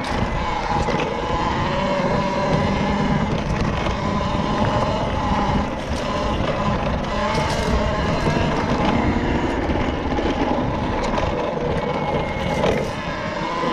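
Talaria Sting electric dirt bike being ridden: the electric motor whines steadily, its pitch wavering slightly with throttle, over a continuous rush of tyre and wind noise.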